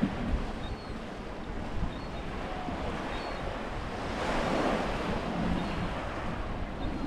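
Small waves breaking and washing up the beach, with one wash swelling about four seconds in, over wind rumbling on the microphone.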